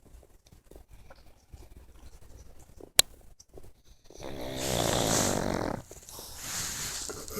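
A pug snoring: after a quiet stretch and a single sharp click about three seconds in, one long snore with a buzzing flutter, then a softer, breathier snore near the end.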